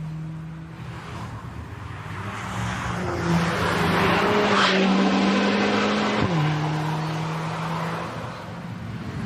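Racing car engine running at held revs, rising a little about three seconds in and dropping back about six seconds in.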